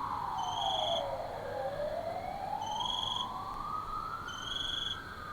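Police siren in slow wail mode: the tone falls to a low point about a second and a half in, then rises slowly and starts falling again near the end. A short high trill repeats every couple of seconds over it.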